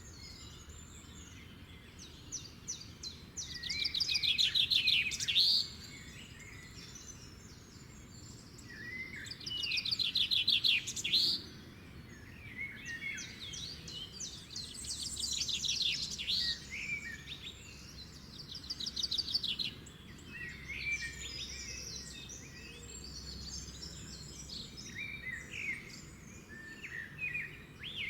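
A chorus of songbirds: one bird repeats a loud, rapid trilled song about two seconds long, four times, while other birds chirp and whistle in between.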